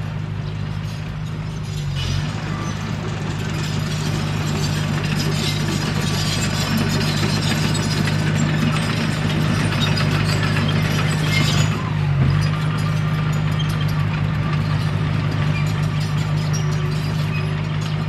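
Komatsu D21P bulldozer's diesel engine running steadily, with a noisy mechanical clatter that builds from about two seconds in and eases after about twelve seconds.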